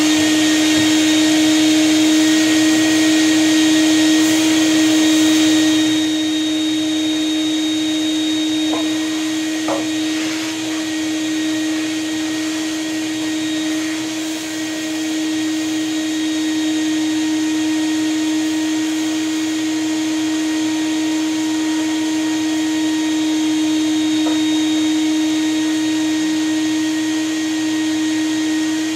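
Vacuum cleaner running steadily with a constant motor whine while ash is vacuumed out of the corners of a wood stove. A couple of faint knocks come about nine to ten seconds in.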